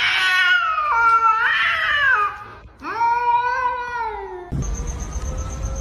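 Domestic cat yowling: two long, drawn-out meows, the first wavering up and down in pitch, the second rising and then falling. About four and a half seconds in, the calls stop and a low rumbling noise takes over.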